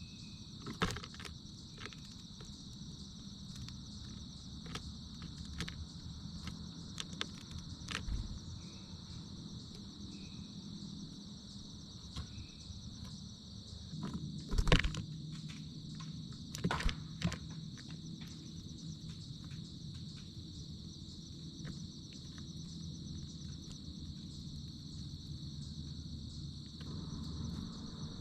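A steady chorus of insects trilling on a high, unbroken pitch, over a low background rumble. Scattered sharp clicks and knocks come through it, the loudest a little under a second in and twice around the middle.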